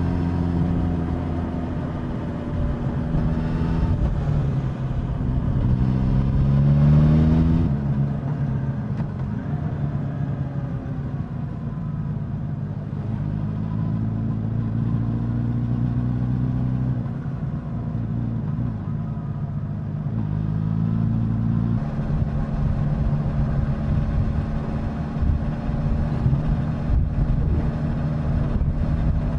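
Suzuki GSX-S1000 inline-four engine and exhaust under way, the pitch climbing under throttle, dropping suddenly about seven seconds in, then holding steady and rising again about twenty seconds in.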